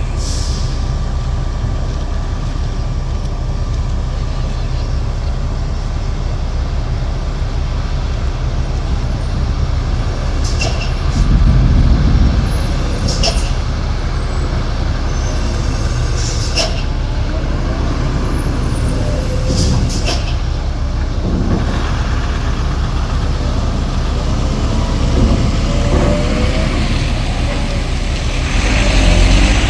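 Heavy diesel trucks running and moving off, with several short air-brake hisses spread through and two louder swells of engine, about a third of the way in and at the end, as trucks pull past.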